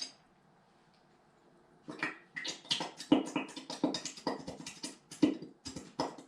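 Wet squelching and sputtering from school glue being worked onto foam prop guts, in quick irregular bursts starting about two seconds in.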